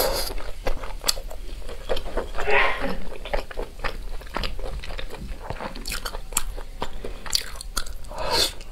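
Close-miked chewing of rice sausage, with many short sharp mouth clicks and a louder fresh bite near the end.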